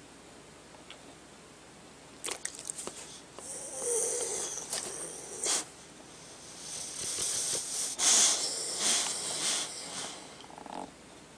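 A sleeping dog snoring: a few small clicks about two seconds in, then two long snoring breaths, the second longer and louder.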